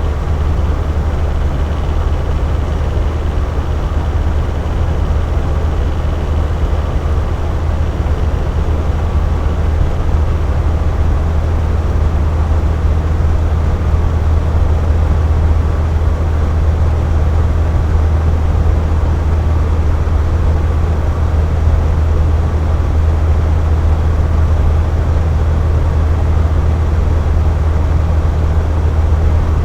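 Box fan running steadily: an even rush of air over a strong low hum, with no change or break.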